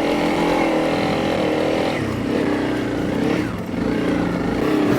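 Honda CRF300 Rally's single-cylinder four-stroke engine running steadily at low revs as the bike crawls over rough ground, with small changes in throttle and a brief dip in level about three and a half seconds in.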